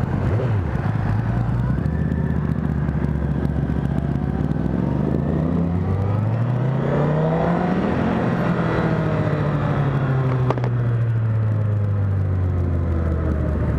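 2010 Honda CBR1000RR's inline-four engine running under way: its pitch climbs steadily for a few seconds as the bike accelerates, then slowly falls as the throttle eases off. A single brief click comes about ten and a half seconds in.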